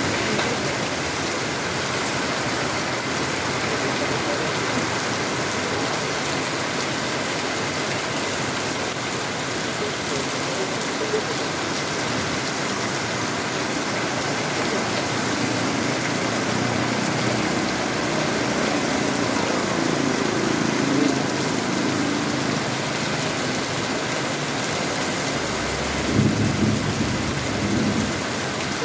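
Heavy rain pouring down in a steady hiss, with a few louder low rumbling swells in the second half.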